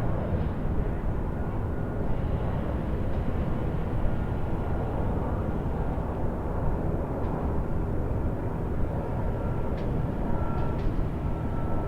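Distant highway traffic: a steady, even rumble of many vehicles passing, with a faint thin whine that comes and goes over it.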